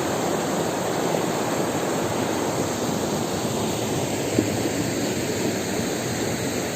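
Waterfall's steady rushing water.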